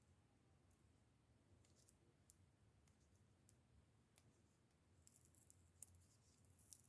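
Near silence, broken by faint scattered clicks and crinkles, a couple about two seconds in and more from about five seconds in: washi tape being handled and peeled from its backing.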